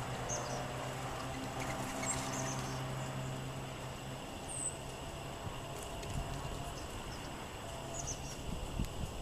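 Small songbirds giving a few short, high chip calls, scattered and far apart, against a constant hiss of gusty wind. A low steady hum runs underneath and stops about four seconds in.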